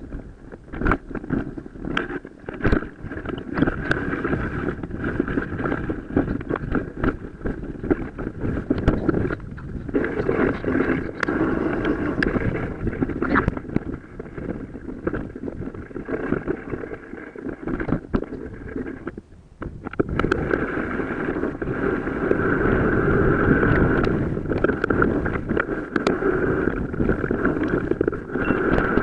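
Riding noise from a mountain bike on rough off-road trail, played at four to five times speed: wind buffeting the microphone and a steady tyre and drivetrain rush, broken by many quick rattling knocks from bumps. The noise drops briefly about two-thirds of the way through.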